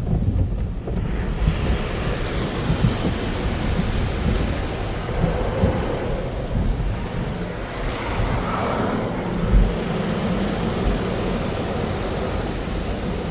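PECO automatic car wash tunnel heard from inside the car: a steady rush of spraying water and wash equipment against the car body, with low rumbling thuds, growing fuller about a second and a half in.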